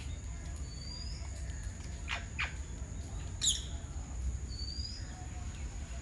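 Outdoor bird calls: two quick upward-sweeping whistles about two seconds in, then a sharp high call a second later, the loudest sound, with a few faint short high notes. Under them run a steady low rumble and a thin steady high tone.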